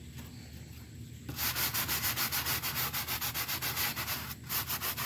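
Rapid back-and-forth scrubbing on a window air conditioner part, about six strokes a second, starting just over a second in.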